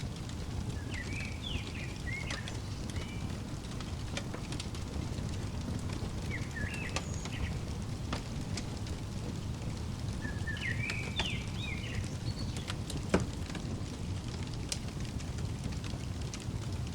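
Wood fire crackling with a steady low rumble and scattered sharp pops, one louder pop near the end. A small songbird chirps over it in three short bursts of quick up-and-down notes.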